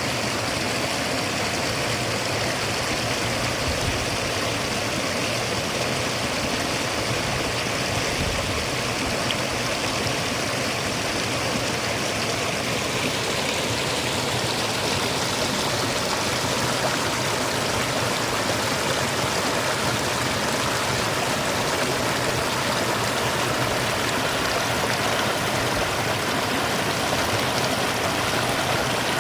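Stream water running and babbling steadily, a continuous even rush.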